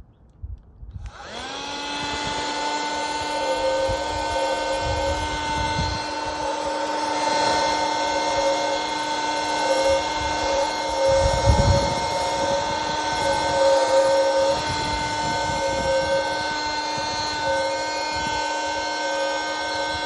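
A vacuum's motor switching on about a second in and running steadily with a pitched hum, sucking pollen from a dragon fruit flower, with a few low bumps as it is handled.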